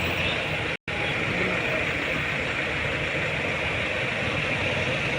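Steady motor vehicle noise with an engine running, broken by a sudden brief gap just under a second in.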